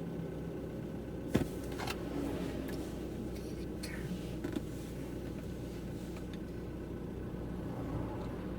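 Steady low hum of a car's engine and road noise heard from inside the moving car, with one sharp click about a second and a half in.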